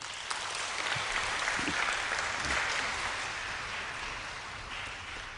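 Audience applauding, starting suddenly, fullest in the first couple of seconds, then slowly dying away near the end.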